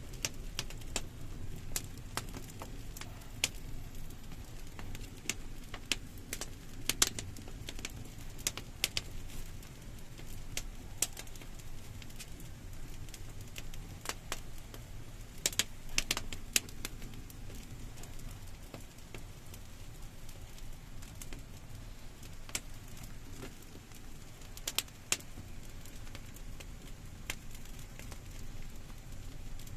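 Wood fire crackling with irregular sharp pops over a low steady rumble of burning, with a few clusters of louder pops.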